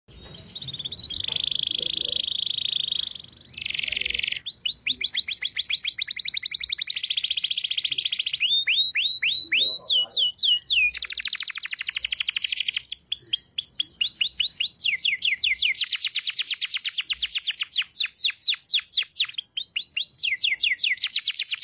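Songbird song from a masteran training track: a short warble, then long rapid trills of repeated sweeping notes, several a second, with brief pauses between phrases.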